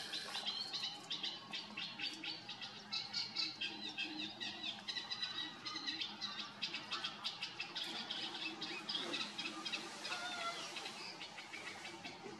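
Small birds chirping and twittering in quick, dense runs, with a couple of longer call notes about ten seconds in.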